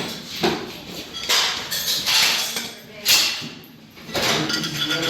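Metal parts of an M2 .50 caliber machine gun being handled and fitted during reassembly: sharp metal knocks and sliding metal.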